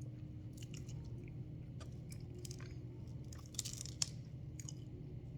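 A person chewing a mouthful of apple fritter close to the microphone: scattered soft clicks and crunches, with a denser run of them about three and a half seconds in.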